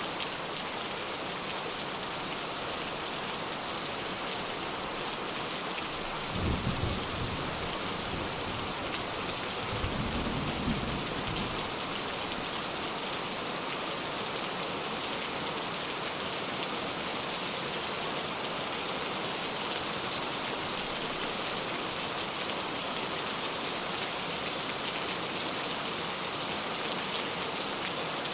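Steady rain falling, with two short low rumbles of thunder about six and ten seconds in.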